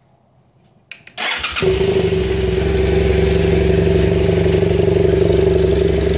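2013 BMW F800GS parallel-twin engine on its stock exhaust, cranked by the electric starter about a second in, catching and then running steadily.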